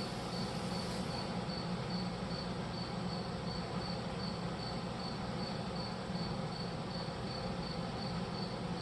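Cricket chirping in a steady rhythm, about three high chirps a second, over a low steady hum.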